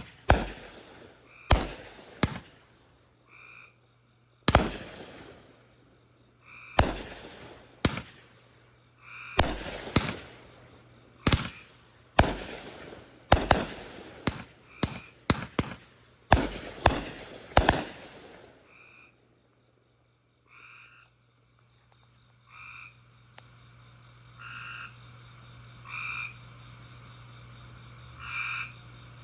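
Fireworks going off in quick succession: about twenty sharp bangs, each trailing off in a crackle or echo, over roughly the first eighteen seconds. Then the bangs stop and frogs are heard croaking, short calls repeated every second or two.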